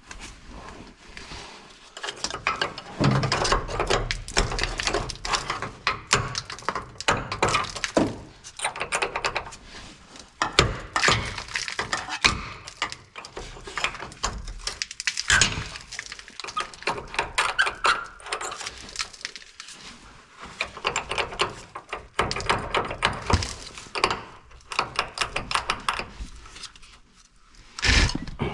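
Hand tools working on a rusted truck cab mount and its hardware: bursts of rapid clicking and knocking with short pauses in between.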